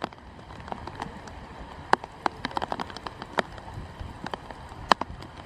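Scattered raindrops striking a hard surface close to the microphone: irregular sharp taps, a handful much louder than the rest, over a faint steady hiss as the rain begins.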